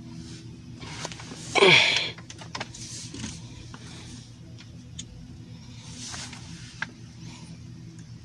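Lincoln car engine idling with a steady low hum. About a second and a half in, a brief loud sound falls sharply in pitch, and a few light clicks follow.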